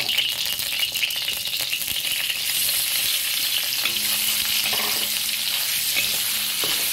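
Soybean sprouts and carrot sticks sizzling as they fry in hot oil in a wok, a steady hiss that grows a little louder about two and a half seconds in.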